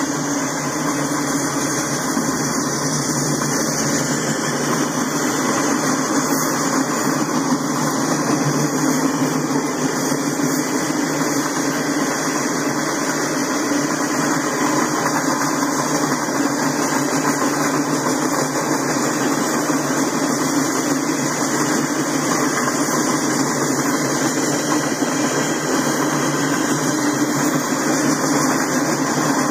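Freight train cars rolling past steadily: a continuous, even rumble of steel wheels on the rails.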